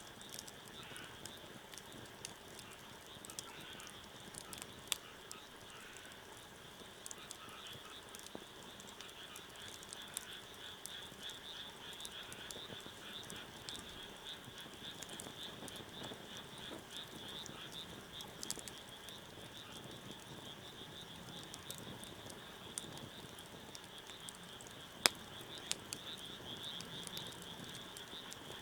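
Wood fire crackling with scattered sharp pops, the loudest near the end, over a steady high-pitched chorus of frogs.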